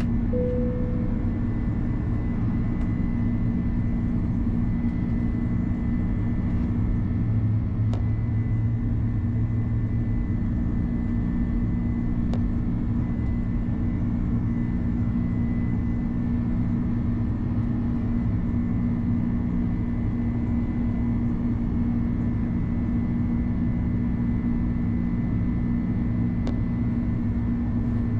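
Steady cabin noise of an Airbus A330-200 airliner: an even low rumble of the jet engines and airflow with a constant hum. A short single tone sounds just after the start, and a few faint ticks come through.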